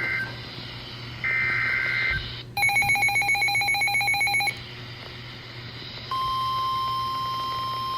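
NOAA Weather Radio tornado-warning alert tones. First comes a short burst of the digital SAME header's warbling data tones, then a rapidly pulsing electronic alert beep lasting about two seconds. About six seconds in, the steady single-pitch 1050 Hz warning alarm tone starts and holds.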